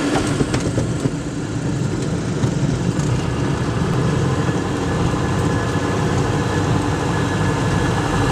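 Aircraft engine and propeller noise heard inside the cockpit during a landing approach: a steady, loud drone.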